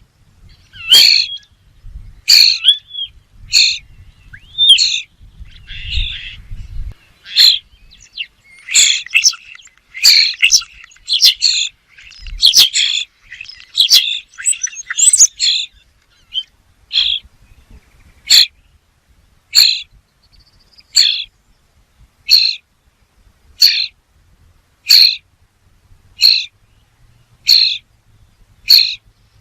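A bird calling over and over with short, sharp, high calls, about one every second and a half, with a busier run of quicker, overlapping calls in the first half.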